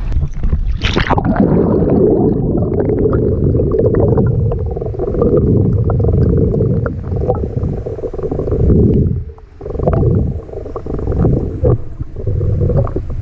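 Sea water heard from under the surface: a loud, muffled, low rushing and gurgling, dipping briefly about nine seconds in.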